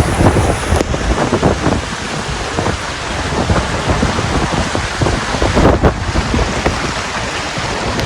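Heavy hurricane rain and gusting wind, the wind buffeting the microphone.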